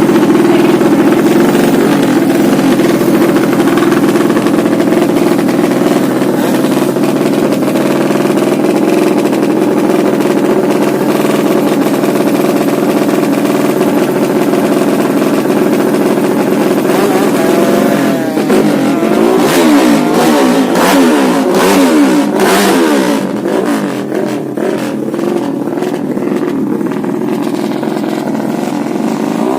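Honda C70 motorcycle with a 200cc engine built on a Honda Karisma base, running at a steady speed for a little over half the time, then revved up and down again and again in the second half.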